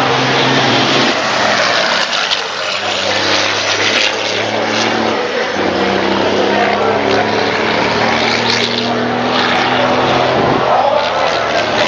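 Racing trucks' diesel engines running hard, their engine notes shifting in pitch every few seconds over a dense wash of noise.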